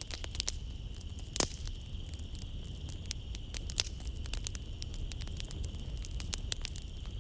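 Wood fire in a fireplace crackling, with frequent small snaps and a sharper pop about a second and a half in, over a low steady rumble. Night insects trill steadily behind it.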